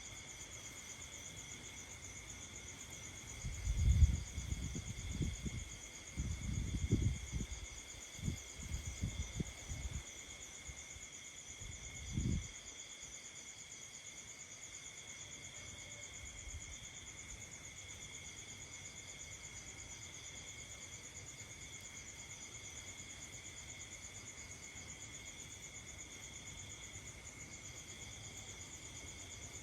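Night chorus of crickets and other insects: a steady, even trilling in several high pitch bands. Between about three and twelve seconds in, a series of low muffled rumbles and thumps, the loudest about four seconds in.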